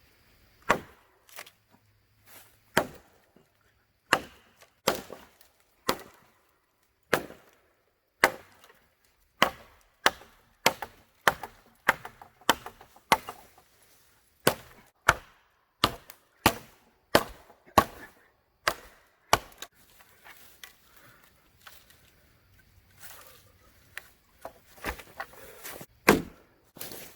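Firewood being chopped: a long run of sharp wooden chopping strikes, spaced out at first, then a steady run of about one and a half a second, then a short pause and a few last strikes near the end.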